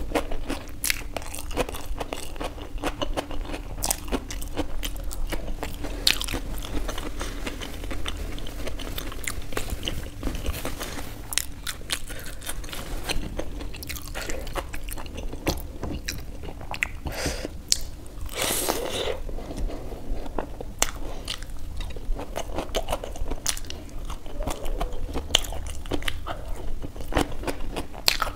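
Close-miked eating: frequent crisp crunching bites and chewing of raw onion and samosa, with one longer, louder burst of noise a little past two-thirds of the way through.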